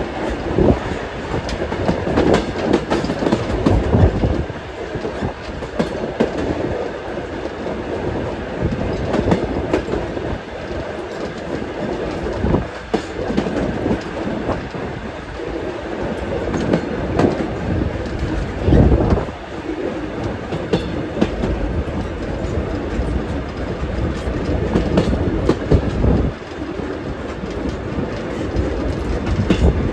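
Passenger carriage of a steam-hauled heritage train in motion: a steady rumble of wheels on the rails, with louder surges about four seconds in and again about two-thirds of the way through.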